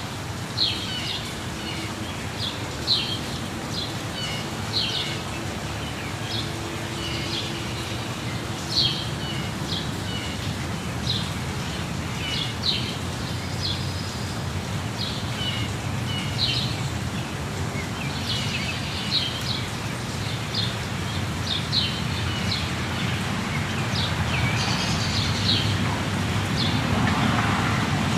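Birds chirping in short, repeated calls over the steady rush of a waterfall. The water noise swells near the end.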